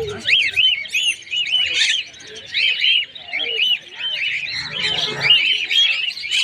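A group of small birds chirping together: a dense, continuous stream of short, arching high chirps from several birds at once.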